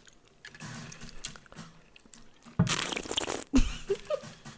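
Close-miked eating sounds: quiet chewing noises, then one loud, wet mouth sound lasting about a second, a little past halfway.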